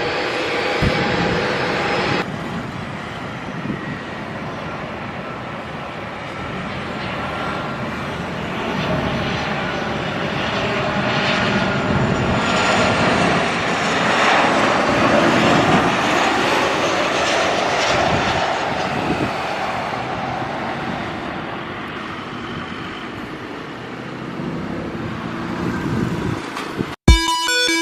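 Airliner jet engines passing: a dense engine noise with a faint whine in it, swelling to its loudest about halfway through and then fading. Electronic music starts near the end.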